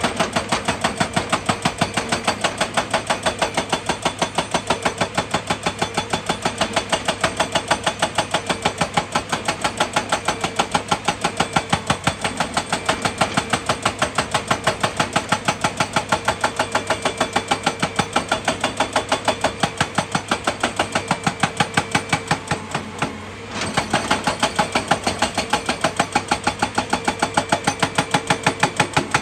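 Heavy machinery running with a steady, even knocking, about three knocks a second, easing briefly near the end before resuming.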